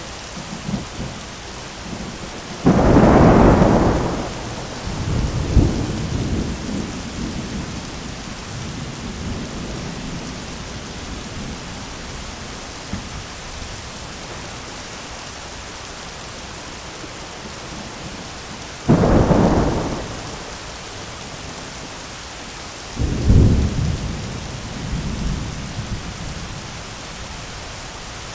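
Thunderstorm: steady rain hissing throughout, with three loud claps of thunder about 3, 19 and 23 seconds in, each trailing off into a low rumble.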